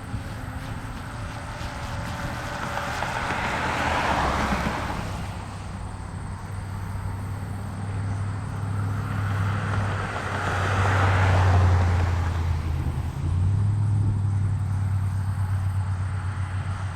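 Two road vehicles pass, their tyre and engine noise swelling and fading about four and eleven seconds in. Under them is a steady low diesel rumble from locomotives working a rail interchange, louder in the second half.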